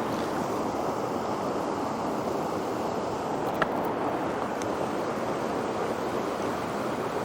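Rushing water of a mountain trout stream with waterfalls, a steady rush, with a single click about halfway through.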